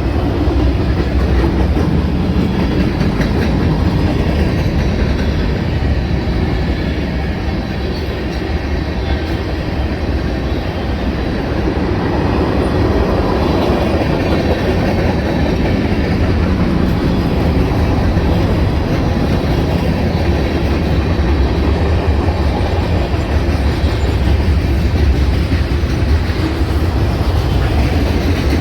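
A train rolling past on the track, a steady loud rumble of steel wheels on rail with a clickety-clack from the rail joints.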